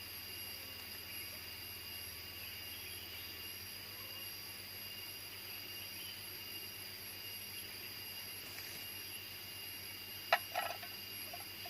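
Steady chorus of jungle insects, several high thin tones held without a break. About ten seconds in, a single sharp knock, followed by a few short softer sounds.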